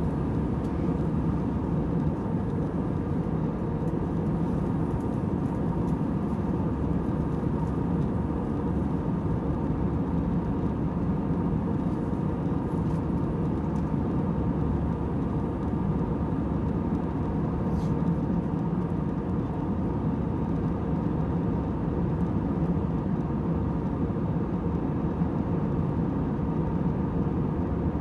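Airliner cabin noise in flight: a steady, monotonous hum and rush from the engines and airflow, with faint constant tones in the middle range.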